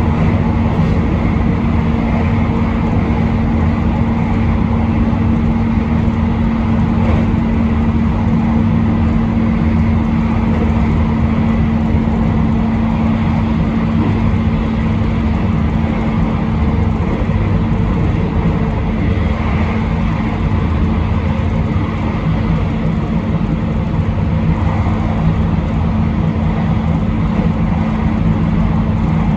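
Passenger train running steadily on the line, heard from inside the car: a continuous rumble of wheels on rail with a steady low hum.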